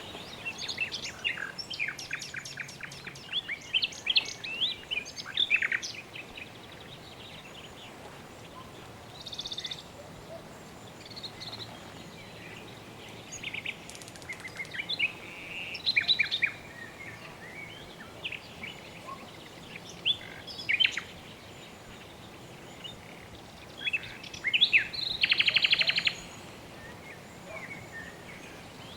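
Several birds chirping and whistling over a steady background hiss. The calls come in a busy flurry over the first few seconds, sparser after, with a fast buzzy trill near the end.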